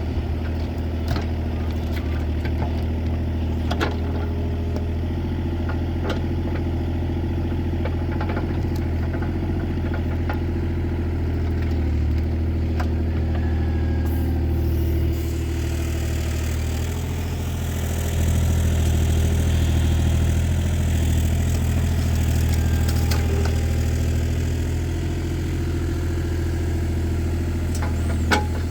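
An engine idling steadily, with a low, even drone that grows a little louder for a few seconds past the middle. A few light clicks sound over it.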